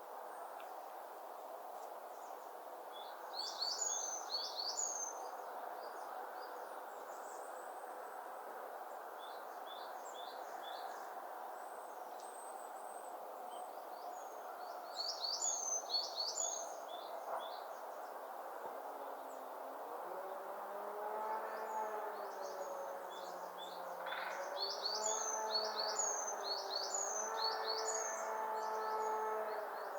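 Small songbird singing short phrases of three to five quick high notes, each sweeping downward, repeated every several seconds over a steady rushing background noise. A low, steady-pitched drone comes in about two-thirds of the way through.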